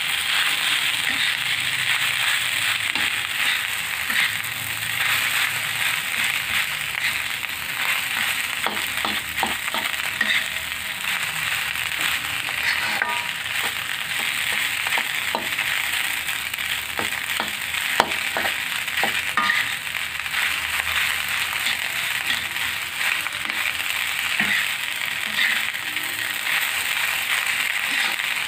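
Fried rice sizzling in a hot wok while a spatula stirs and scrapes through it, with scattered clicks of the spatula on the pan and one sharper knock a little past halfway.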